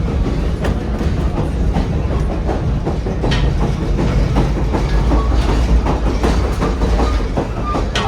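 Grand Canyon Railway passenger train rolling along the track: a steady low rumble with frequent irregular clicks and knocks from the wheels and cars.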